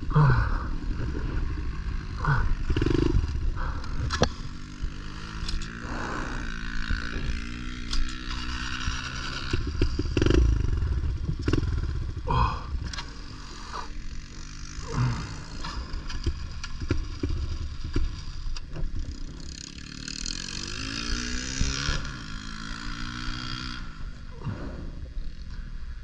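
Pit bike engine running at changing revs, its pitch rising and falling, with repeated clattering knocks and scrapes.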